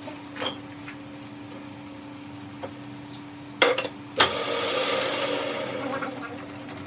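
Steady hum of a running workshop machine. A little over halfway through come two sharp knocks about half a second apart, followed by a louder rushing noise that fades over about two seconds.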